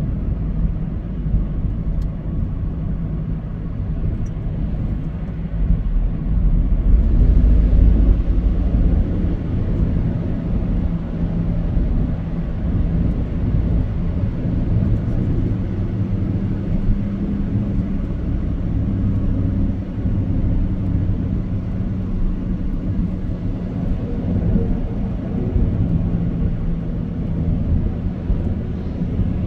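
A vehicle engine running with a steady low rumble, swelling louder for a couple of seconds about seven seconds in.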